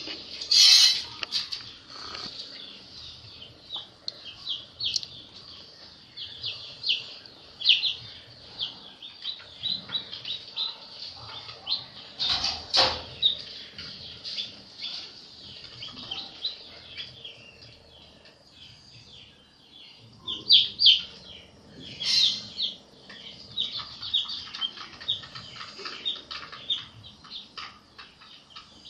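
A brood of baby chicks peeping continuously, many short high chirps overlapping, with a few louder sharp knocks or rustles: one about a second in, one near the middle and one about three quarters of the way through.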